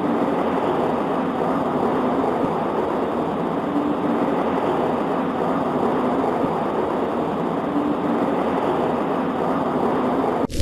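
Steady, even rain on a window, with no distinct drops or thunder claps standing out. It drops out briefly right at the end.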